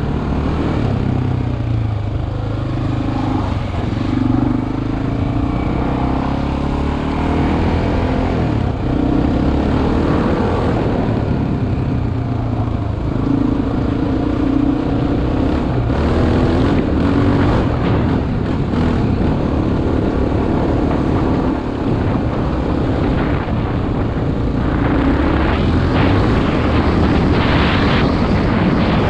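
Dual-sport motorcycle engine running steadily under way, its pitch rising and falling a little with the throttle. Short knocks and rattles come through in the second half.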